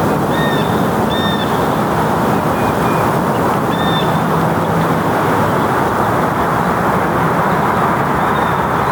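Loud, steady rushing outdoor noise with a few short bird calls over it: one near the start, one about a second in, one around four seconds in and a faint one near the end.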